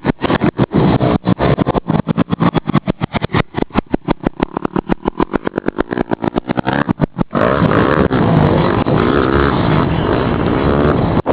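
Motocross dirt bike engines running. For the first seven seconds or so the sound is chopped by many rapid dropouts; after that it is steady, with revs rising and falling.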